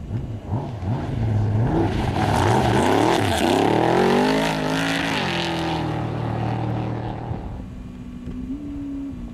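Off-road race vehicle's engine passing close by, its pitch rising and dropping repeatedly as it revs, loudest about three to four seconds in with a rush of noise. Its drone then holds steady and fades as it moves away.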